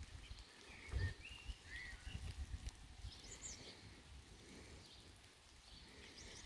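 Faint rain falling, with birds chirping in short calls and a few low thumps, the loudest about a second in.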